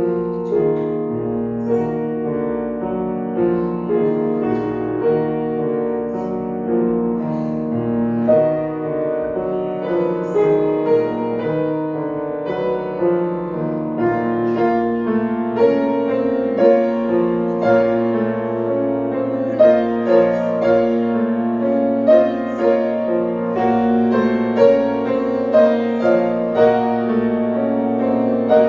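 Piano playing a slow classical passage of sustained chords, with sharper accented notes and slightly louder playing in the second half.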